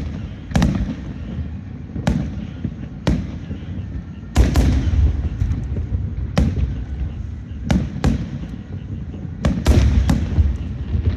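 Fireworks going off: about ten loud, separate bangs at irregular intervals, some trailing a brief rumble, over a steady low rumble.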